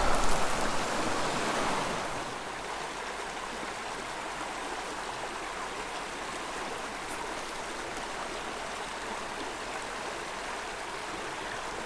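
Small mountain creek flowing over rocks, a steady rushing of shallow water. The water noise is louder for the first two seconds, where a released trout is let back into the stream, then settles to an even flow.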